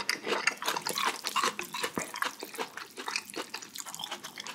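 Close-miked wet chewing of a whole raw garlic clove: a run of many small, irregular, wet clicks and smacks from the mouth.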